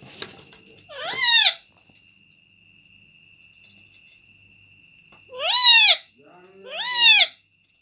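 Pet parrot giving three loud squawking calls, each about half a second long and arching up then down in pitch, the first about a second in and the other two close together near the end.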